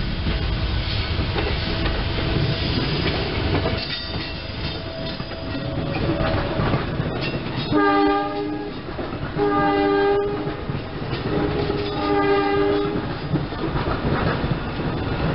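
Three-car SEPTA Silverliner II electric train rolling past and pulling away, with a steady rumble of wheels clacking over the rail joints and a faint steady hum. Partway through, a train horn sounds three blasts, the last the longest.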